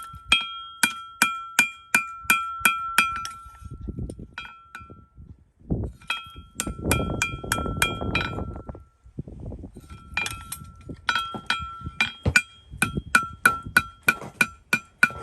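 A farrier's hammer striking steel in fast, even blows, about three a second, each ringing with the same clear metallic tone. The strikes stop for a few seconds around the middle, where a rougher scraping noise with a few scattered strikes fills the gap, then resume to the end.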